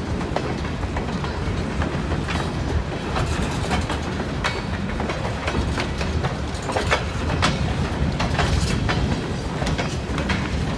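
Train rolling past with a steady rumble, its wheels clicking over the rails again and again.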